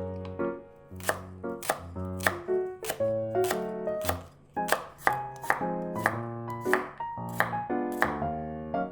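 A knife chopping on a cutting board: a dozen or so sharp, fairly evenly spaced strokes over background music with steady melodic notes.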